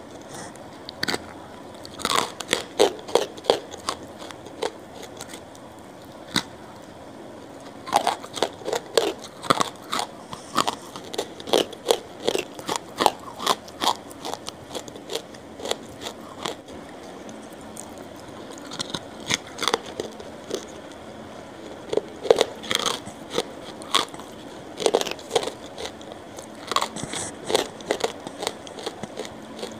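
Close-miked eating sounds: a person biting and chewing crunchy food, sharp crackles coming in runs with short pauses between them.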